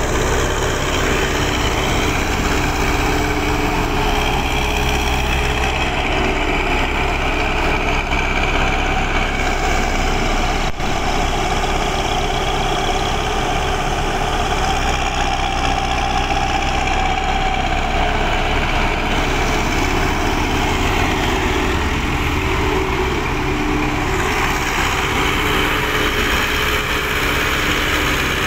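Hino Dutro dump truck's diesel engine running steadily during tipping of its load, with a whine that swells about halfway through and then fades.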